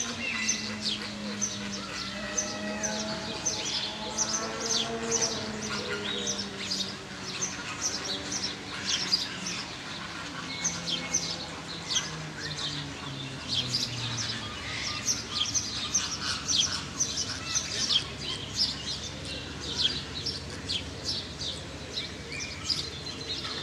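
Small birds chirping in a dense chorus of short, high chirps, with a lower murmur underneath in the first half.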